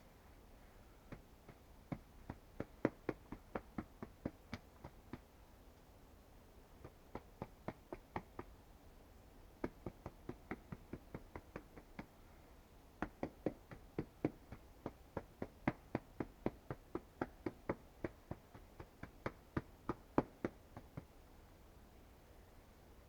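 Footsteps: runs of short sharp steps, about three a second, stopping and starting several times.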